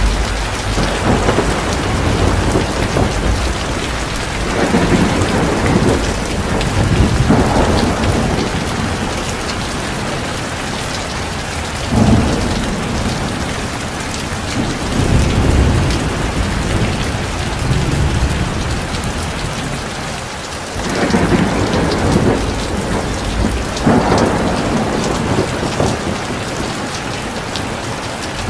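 Heavy rain falling steadily, with low rolls of thunder swelling up several times.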